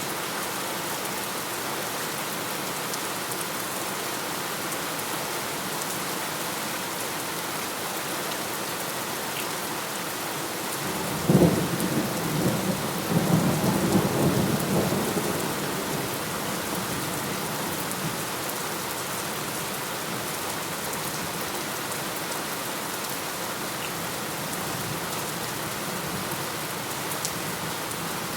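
Steady heavy rain falling, with one thunderclap about eleven seconds in: a sharp crack followed by a rolling rumble that dies away over about five seconds.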